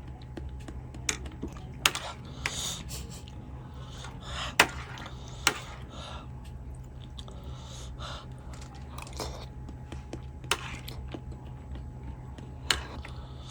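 Close-miked eating sounds of a person chewing Vietnamese blood pudding, with scattered sharp mouth clicks and smacks. A steady low hum runs underneath.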